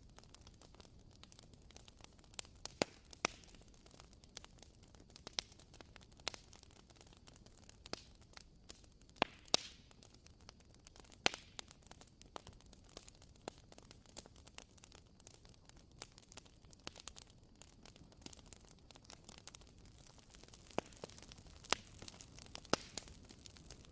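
Wooden-wick candle crackling: irregular sharp pops and ticks, like a small campfire, over a faint hiss.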